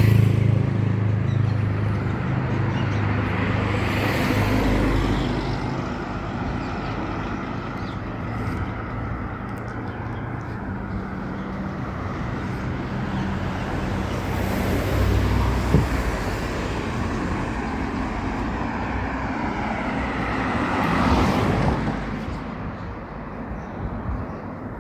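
Road traffic: motor vehicles passing one after another, the engine hum and tyre noise swelling and fading. It is loudest right at the start and rises again about 15 and 21 seconds in, then fades near the end.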